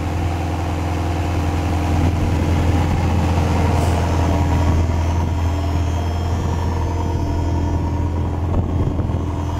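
A 1994 Ferrari 348 Spider's 3.4-litre V8 idling steadily and smoothly at about 1100 rpm, shortly after a cold start.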